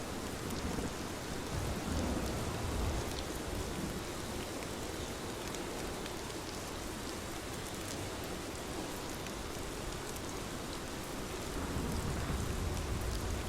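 Steady rain falling, an even hiss speckled with small drop ticks. A low rumble swells up about a second in and again near the end.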